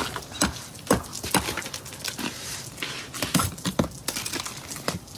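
Repeated sharp knocks and cracks of ice being chipped and broken off a car encased in ice, struck at an uneven pace of about one to two blows a second.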